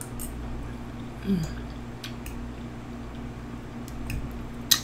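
A few sharp clicks of cutlery against a plate during a meal, the loudest near the end, with a brief low hum from the eater about a second in, over a steady low background hum.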